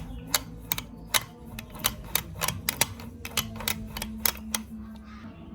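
A quick, irregular run of sharp clicks and taps, about four a second, stopping about four and a half seconds in, over a low steady hum.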